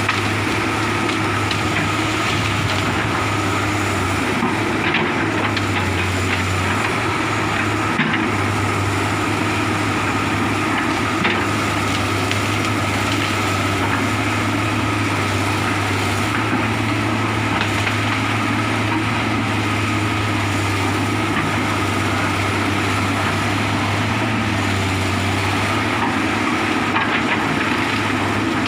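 Komatsu hydraulic excavator's diesel engine running steadily under work, with a few short sharp knocks and cracks now and then.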